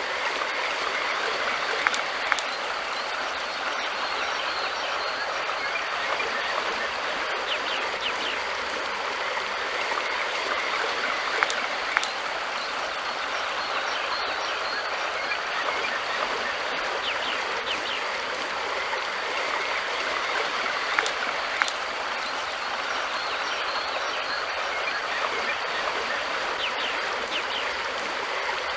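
River water flowing, a steady continuous rush with a few brief sharp ticks scattered through it.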